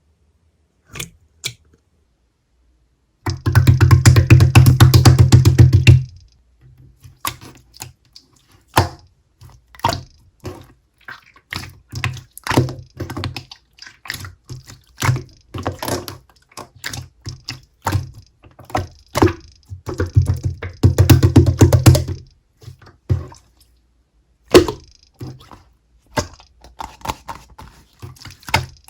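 Clear slime being squeezed and poked: wet, sticky clicks and pops, with two long runs of rapid crackling pops, a few seconds in and again around twenty seconds in, and scattered single clicks in between.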